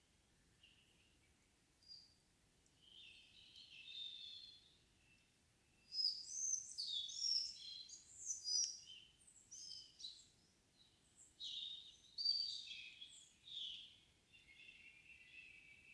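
Songbirds singing in a still forest at dusk: a short phrase about three seconds in, then a busier, varied song of quick high notes from about six to fourteen seconds, ending in a lower trill.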